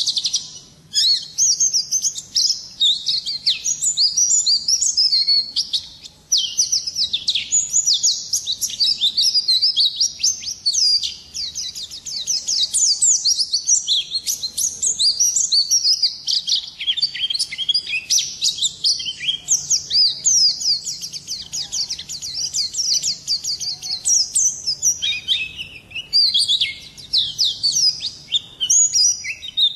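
Pleci (white-eye, Zosterops) singing: a fast, continuous twittering song of rapid high chirps and quick pitch sweeps, with short breaks about a second in and around six seconds in.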